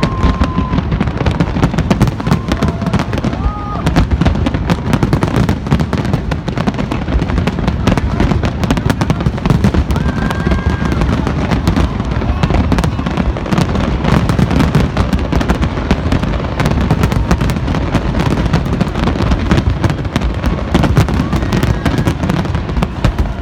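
Fireworks display: a dense, unbroken barrage of bangs and crackles, many shells bursting each second, with a few brief whistles near the start.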